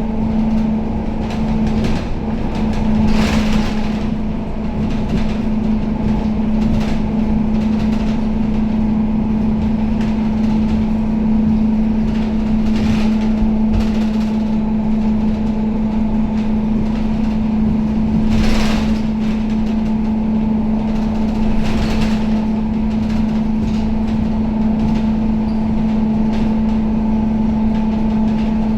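Inside a Scania K270UB city bus on the move: a steady drone from the diesel engine and drivetrain holding one pitch over road rumble. A few short rattles or knocks stand out along the way.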